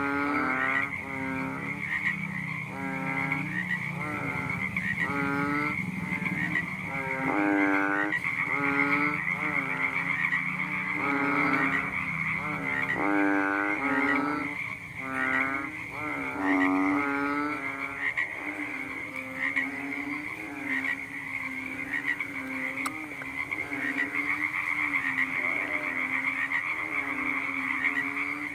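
A frog croaking over and over, a run of short pitched calls about one a second, louder in the first half and fainter toward the end. A steady high trill carries on underneath.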